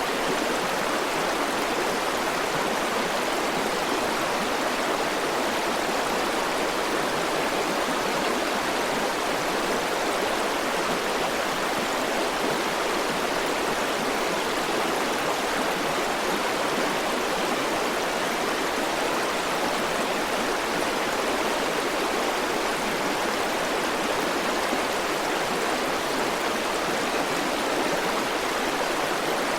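A river rushing steadily over rocks, a constant even rush of flowing water with no changes.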